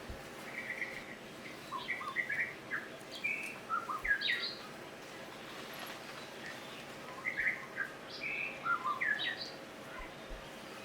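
A bird singing: a phrase of short chirps and whistles, given twice with a pause between.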